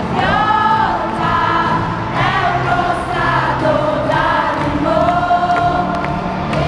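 Live pop-rock band playing, with a large stadium crowd singing along in chorus.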